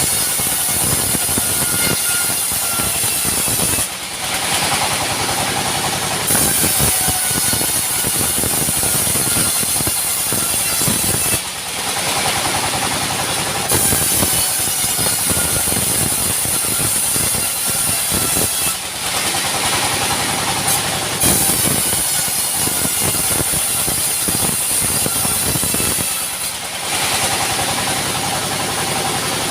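Sawmill saw machinery running steadily and loudly, with a high-pitched whine that drops out briefly about four times, roughly every seven seconds.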